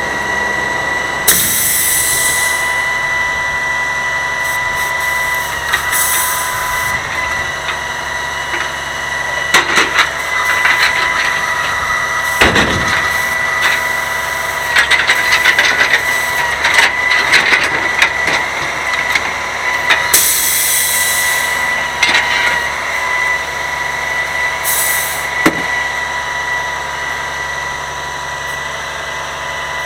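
Grapple truck running with a steady high whine. Several short hisses of air come and go, and in the middle there is a run of knocks and crunching.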